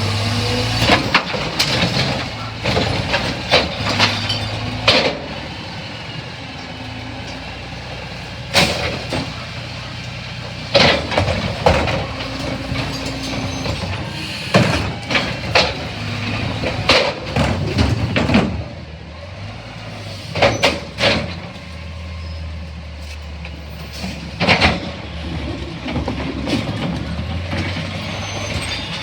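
A CNG Freightliner McNeilus rear-loader garbage truck is running, its engine hum stepping up and down. Repeated sharp clanks and bangs sound throughout.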